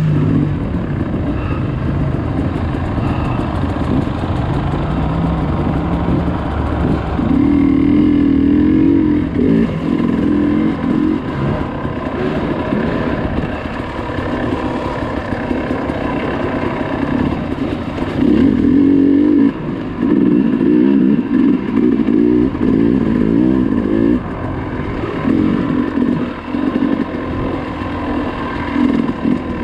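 Dirt bike engine being ridden off-road, revving up and down as the throttle is worked, with louder bursts of throttle about a third of the way in and again past the middle.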